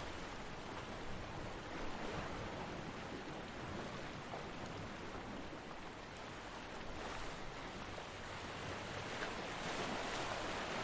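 Ocean waves breaking on a beach: a steady wash of surf that swells and eases, building louder near the end.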